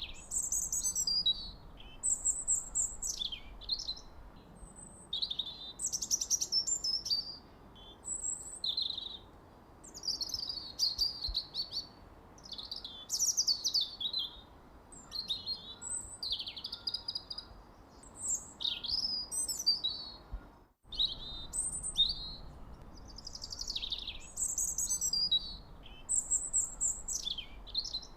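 Songbirds chirping and singing in quick, high, sweeping phrases, one after another with short pauses between them. A brief dropout cuts the sound for a moment about two-thirds of the way through.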